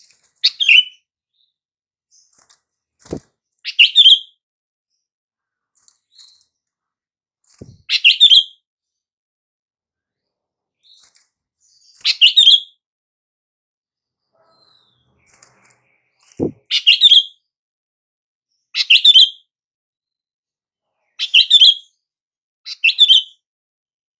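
Sooty-headed bulbul (kutilang) giving short, chirpy calls, about eight in all, each lasting about half a second and spaced two to four seconds apart. Two faint clicks fall between calls.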